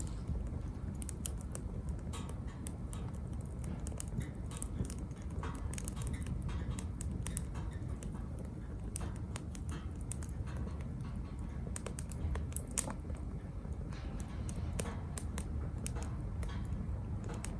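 Small wood fire crackling: irregular sharp pops and ticks over a low steady rumble of burning, with one louder pop about two-thirds of the way through.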